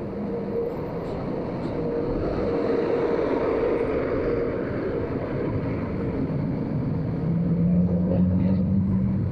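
Motorcycle engine running on the move, with road and wind noise. A steady engine tone sits higher in the first few seconds and gives way to a lower tone in the second half.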